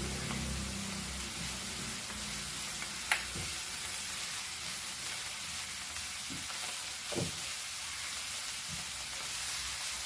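Chopped onions and garlic with ginger-garlic paste sizzling steadily in hot oil in a frying pan as they are stirred with a spatula. There is a sharp tap about three seconds in and a few softer knocks against the pan after it.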